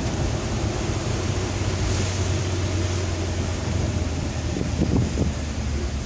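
Suzuki Carry Futura pickup on the move, heard from inside the cabin: a steady low engine drone under a constant hiss of road and wind noise.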